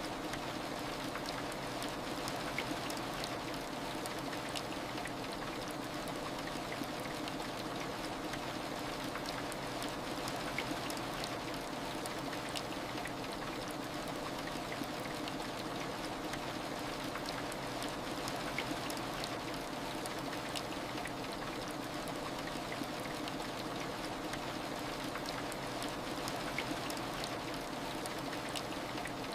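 Steady heavy rain, an even rushing hiss with faint scattered drop ticks.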